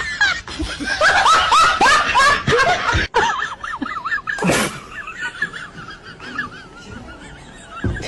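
Rapid high-pitched laughter, a run of quick snickering notes, loudest in the first few seconds and dropping to a quieter snicker after about five seconds.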